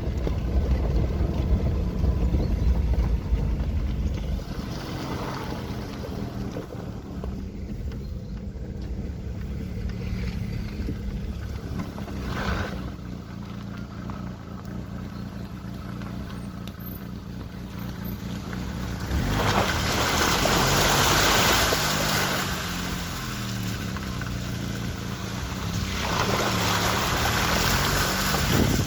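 A vehicle driving along a wet, muddy forest track, its engine running under load and shifting in pitch. Two louder rushes of water splashing under the tyres come about two-thirds of the way through and again near the end.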